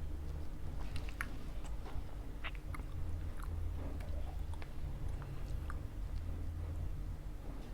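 Close-miked chewing of pizza, with scattered small clicks and smacks from the mouth over a steady low hum.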